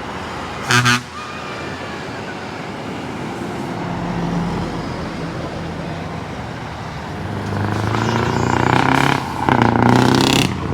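Trucks driving off with engines running steadily; a short horn toot about a second in. Near the end a truck grows louder as it passes and gives two loud horn blasts.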